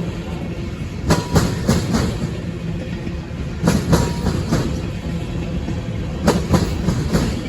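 Railcars rolling past, their wheels clicking over a rail joint in groups of four about every two and a half seconds, over a steady low rumble.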